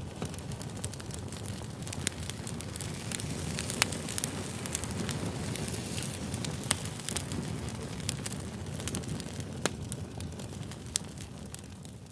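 Fire crackling: a steady low rumble with sharp pops scattered throughout, the loudest about four and seven seconds in.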